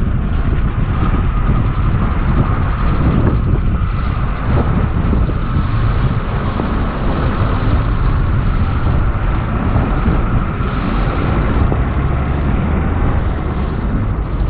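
Strong wind buffeting the microphone over the rush of the incoming tide, waves surging and splashing against the shore rocks.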